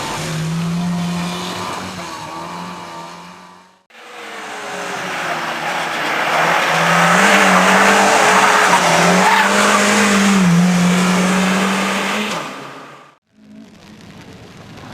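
Competition car engines at high revs, with tyre noise, in two separate passes. The first fades out about four seconds in. The second, louder one builds up and cuts off abruptly near the end.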